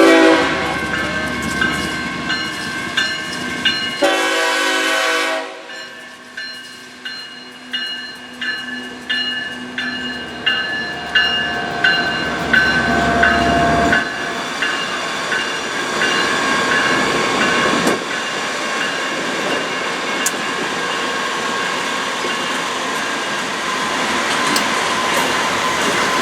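Train passing, with steady wheel and rail noise and regularly repeating clicks. A short diesel locomotive horn blast comes about four seconds in.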